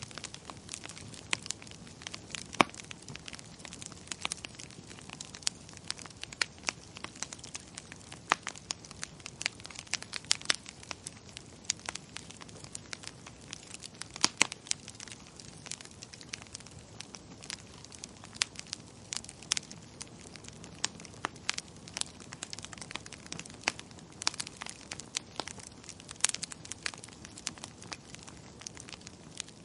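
Wood fire crackling in a fireplace: a steady low hiss with irregular snaps and pops, a few of them sharper and louder than the rest.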